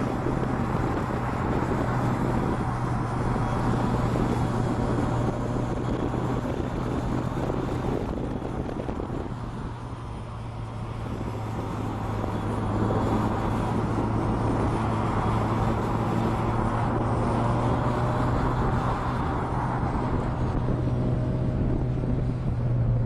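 A truck's engine running steadily with a constant low drone, easing off about ten seconds in and building up again.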